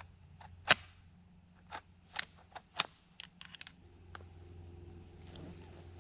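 Wild turkey cutting: a string of sharp, irregular clucks, loudest about a second in and again near three seconds in. A faint steady drone comes in after about four seconds.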